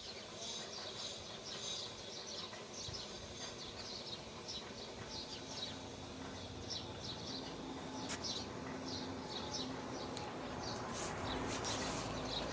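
Small birds chirping in quick, repeated runs of short high notes over steady outdoor background noise.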